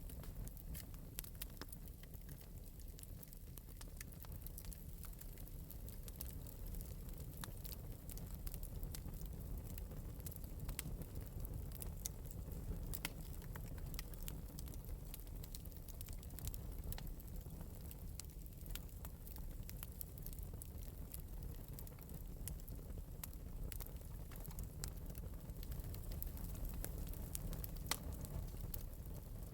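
Fire crackling in an open metal fireplace: scattered sharp pops and clicks over a steady low rumble.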